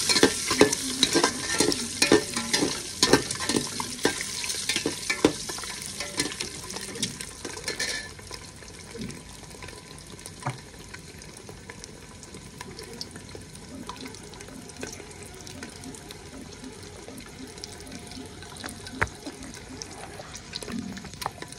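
Boiled eggs frying in hot oil in an aluminium pot, sizzling while a metal spatula stirs and scrapes against the pot in quick clinks. About eight seconds in the stirring stops and the frying goes on more quietly, with an occasional tap.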